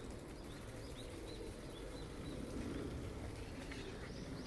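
A small bird chirping a quick run of short high notes, about three a second, in the first half, over a steady low rumble.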